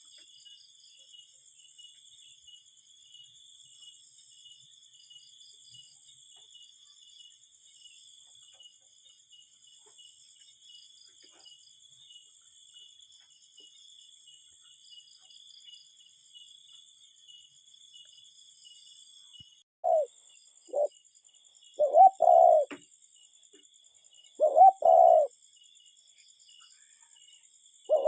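A cuckoo calls its two-note "cu-ckoo" four times in the last third, each a short note then a longer one. A steady high-pitched insect chirring runs underneath.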